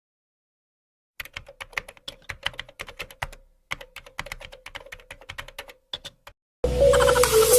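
Rapid keyboard-typing clicks, starting after about a second of silence and running in two bursts with a short break in the middle over a faint steady hum. Loud music cuts in abruptly near the end.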